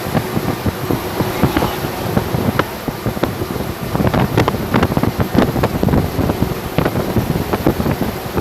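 Wind buffeting the microphone over a running vehicle, with many short crackles and knocks, busiest in the second half.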